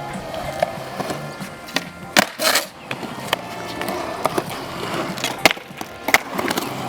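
Skateboard wheels rolling over concrete, broken by several sharp clacks and slaps of the board, the loudest about two seconds in and again past five seconds.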